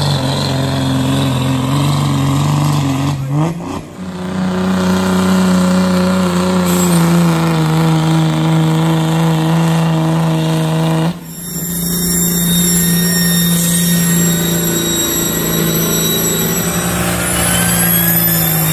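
Truck engine running hard at steady high revs under load, pulling a weight sled. The pitch holds level, with abrupt breaks about four and eleven seconds in, and a thin rising whine near the end.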